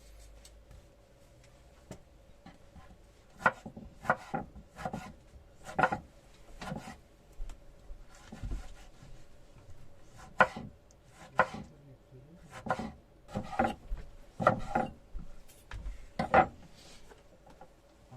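A series of sharp, irregular knocks and clatter, each ringing briefly, as hard objects are handled and knocked together. The knocks come in uneven clusters, with about fifteen loud ones, over a faint steady hum.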